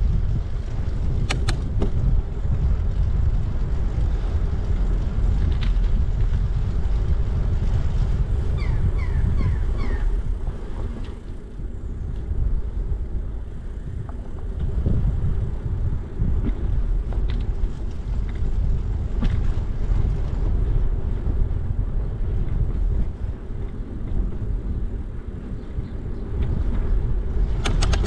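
Wind buffeting the microphone of a camera riding along on a moving bicycle: a loud, low, steady rumble that eases off twice.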